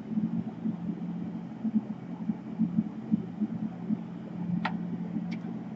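Steady low background hum, with two light clicks near the end as laptop parts are handled during reassembly.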